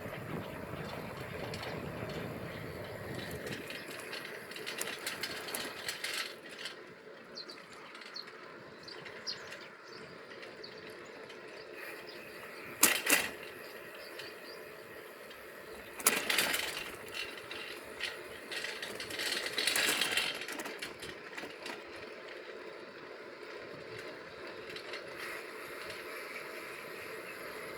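Bicycle being ridden: steady rolling and wind noise, broken by a few loud rattling clatters around the middle, the sharpest two about three seconds apart.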